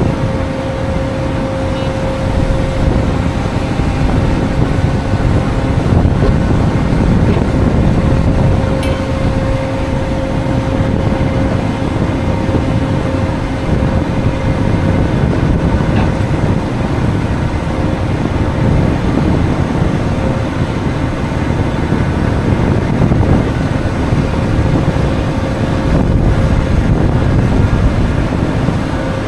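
Heavy truck running: a steady low engine and road rumble with a faint constant hum.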